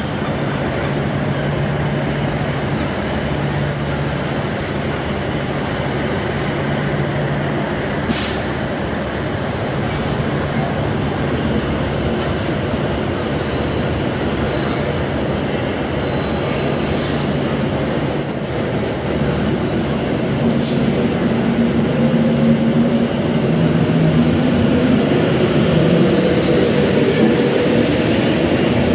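Class 390 Pendolino electric train running slowly into the platform, its running noise growing louder as it draws alongside. A few brief high squeals come through in the middle.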